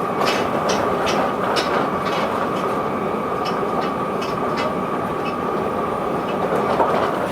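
Linimo HSST low-speed maglev train running at speed, heard from inside the car: an even running noise with a steady high whine, and a run of light ticks over the first few seconds. There is no tyre or wheel noise.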